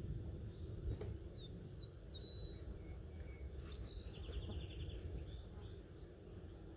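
Wild birds calling outdoors: a few short chirps and whistled notes, then a quick trill about four seconds in, over a steady low background rumble.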